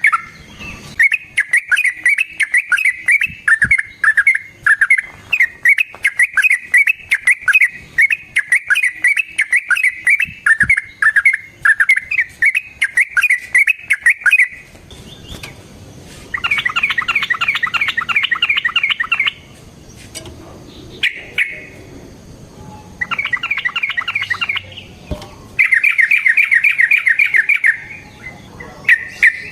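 Yellow-vented bulbul (trucukan) singing: about fourteen seconds of quick, repeated chattering notes, then after a short pause three fast rattling trills.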